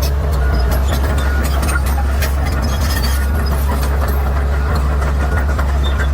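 Bulldozer's diesel engine running with a steady low drone, overlaid by frequent short sharp clicks and cracks.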